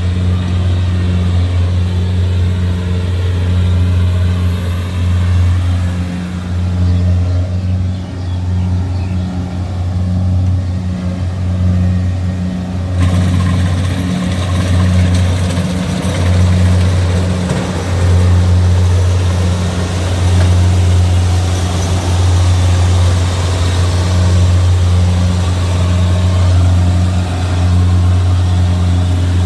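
Kubota DC-70G Plus combine harvester's diesel engine running steadily at working speed while it harvests rice, with a steady low hum under a broad mechanical din. The noise becomes brighter and a little louder about a third of the way in.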